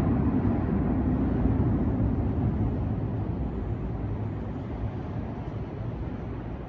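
Madrid Metro Line 6 train pulling out of the station, its low rumble on the rails fading steadily as it draws away.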